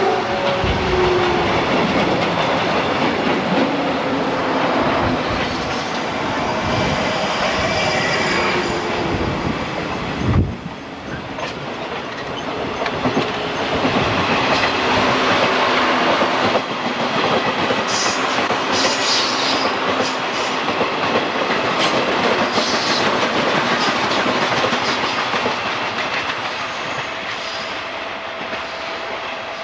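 A Japanese National Railways train running through the station, its wheels clattering over the rail joints. There is a sharp knock about ten seconds in, and some high wheel squeal in the second half.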